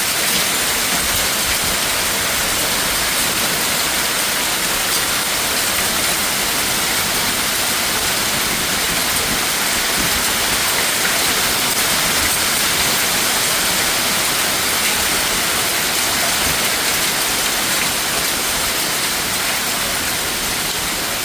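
Heavy rain pouring steadily, a loud, dense, even hiss with no let-up.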